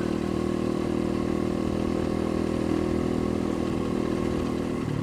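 Off-road motorcycle engine running at a steady speed while riding, an even drone with no change in revs.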